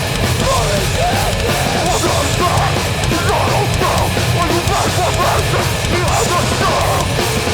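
A hardcore band playing live, loud and without a break: heavy, distorted rock music with drums.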